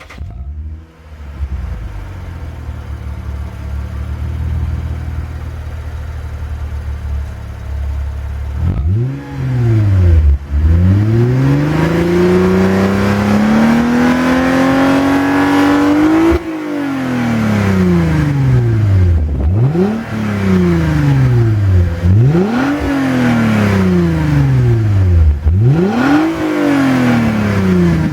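Lexus IS250's 2.5-litre V6 through a TRD sports muffler, starting and idling for about eight seconds, then revved with the car standing. There is one quick blip, then a long, steady climb in revs lasting about five seconds up toward the rev limit, then a string of sharp throttle blips about two and a half seconds apart, each rising fast and falling back toward idle.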